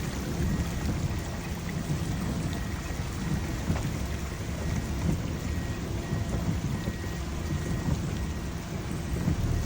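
Heavy rain falling: a steady dense hiss with a low rumble under it.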